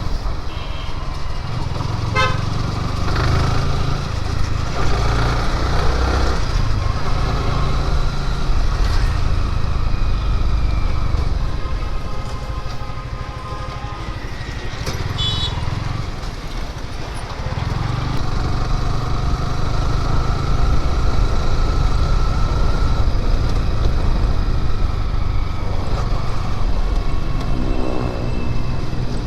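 Road traffic heard from a moving motorcycle: a steady low rumble of engine and riding noise, with vehicle horns tooting several times.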